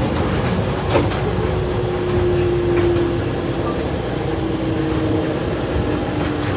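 Automated airport tram car running on its guideway, heard from inside the car: a steady rumble with a faint motor whine that drops in pitch in steps, and a single knock about a second in.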